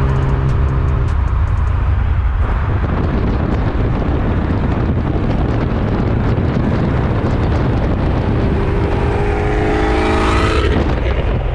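Camaro ZL1's supercharged LSA V8 through long-tube headers and a Corsa exhaust, running loud under way; near the end the engine note climbs in pitch and then drops suddenly, as at a gear change.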